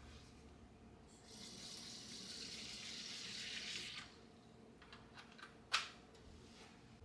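Water running for about three seconds and then shut off, followed by a few light clicks and one sharp knock.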